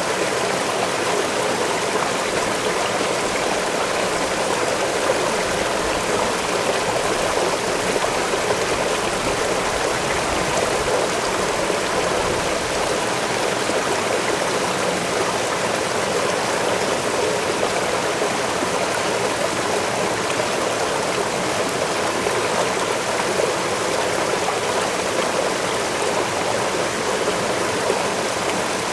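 Waterfall rushing steadily: an even, unbroken water noise, fullest in the middle range.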